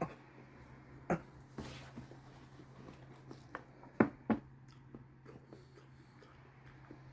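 Close-up eating sounds: microwaved Brussels sprouts being chewed, with a few sharp mouth or utensil clicks, the loudest about four seconds in, over a low steady hum.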